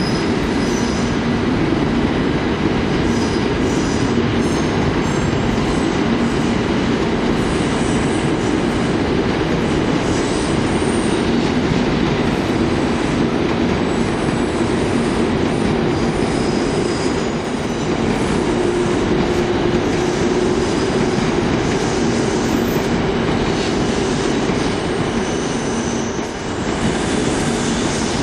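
Tokaido Shinkansen train running along the tracks: a steady, loud rumble of wheels on rail, with brief faint high-pitched wheel squeals now and then.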